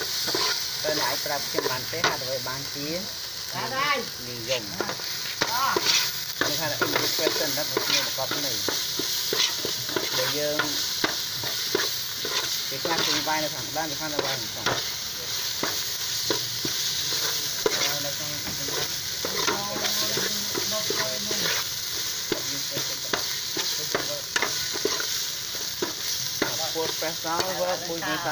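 Spice paste frying in oil with a steady sizzle in a large aluminium stockpot, stirred with a metal ladle that scrapes and clicks against the bottom and sides of the pot.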